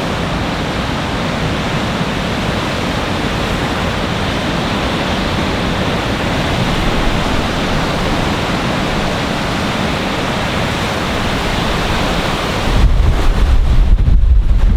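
Strong wind with a steady roar of surf. Near the end, heavy gusts buffet the microphone as a loud low rumble.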